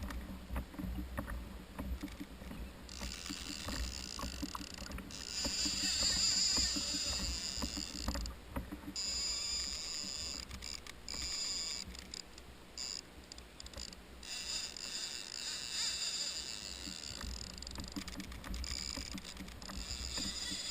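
Kayak on open water: a steady low rumble of water and wind, with a high-pitched whine that starts and stops several times, loudest about a quarter of the way in.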